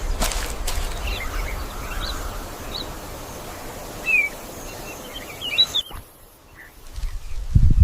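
Birds chirping in short bursts over a steady haze of outdoor ambience with a low rumble; the ambience cuts off suddenly about six seconds in, and heavy low thuds begin near the end.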